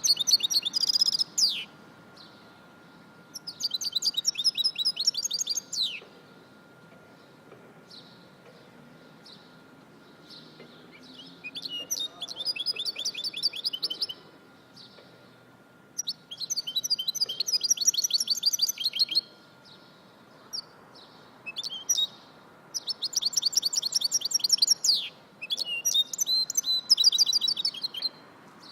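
A songbird singing in rapid, trilled phrases of high chirps, each phrase lasting two to three seconds with short pauses between them, about seven phrases in all.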